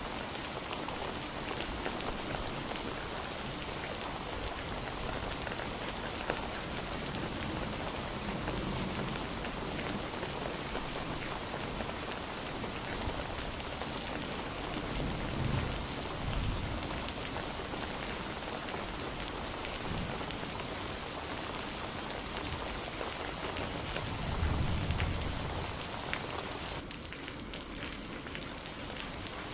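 Steady rain falling, with low rumbles of thunder swelling twice, about halfway through and again near the end.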